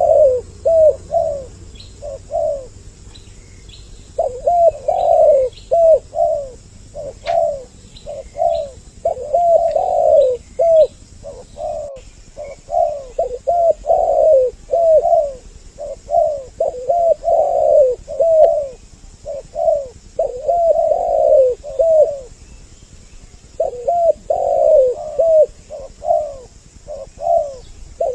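Spotted doves cooing: two voices calling over each other in near-continuous runs of short, rolling coo phrases, pausing briefly now and then.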